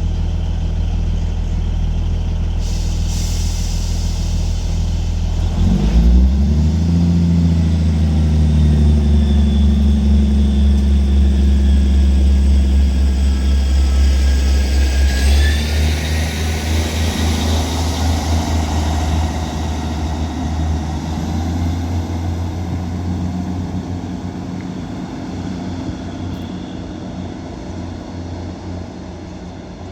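Diesel engines of a 3-car Class 158 diesel multiple unit pulling away from the platform. They are idling at first, open up about six seconds in with a rising note, and shift to a new note about halfway with a high whine stepping up. The sound then slowly fades as the train draws away.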